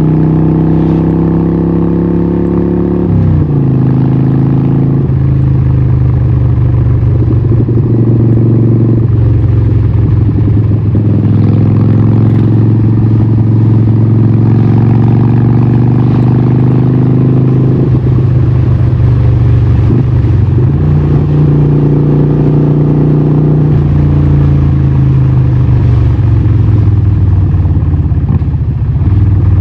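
Harley-Davidson 1200 Nightster's 1200cc Evolution V-twin running through a Vance & Hines exhaust, holding steady engine speeds with changes in pitch: the note drops about three seconds in and rises again a little after twenty seconds.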